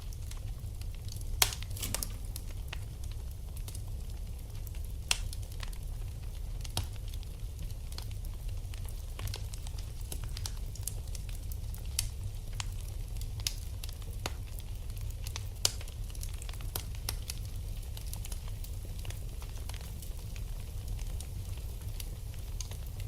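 Wood fire in a fireplace crackling, with irregular sharp pops (the loudest a few scattered ones) over a steady low rumble.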